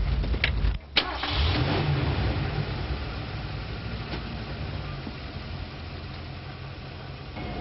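Car engine running, with a break about a second in; after it the engine and road noise slowly fade.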